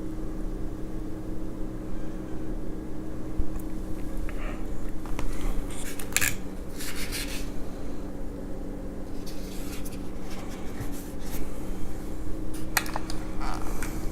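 Scattered taps, rubs and crinkling bursts from food containers and cutlery being handled, over a steady low hum.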